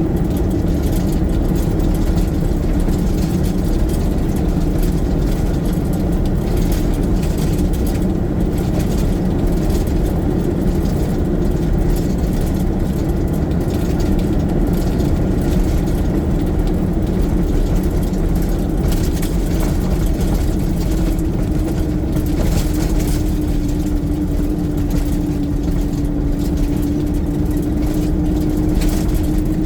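Garbage truck engine running steadily: a continuous low rumble with a steady humming drone, dipping slightly in pitch near the end.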